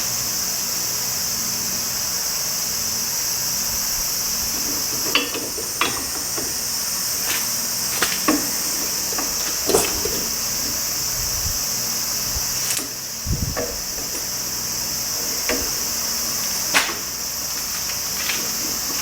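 Light metallic clinks and knocks of hand tools at irregular moments, about a dozen in all, over a steady high-pitched insect drone.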